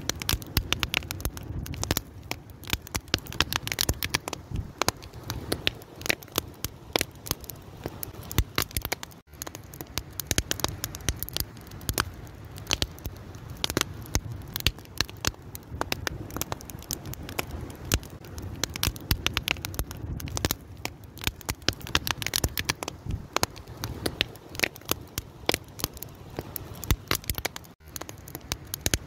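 Wood fire crackling and popping, with many irregular sharp snaps over a low, steady rumble of flames.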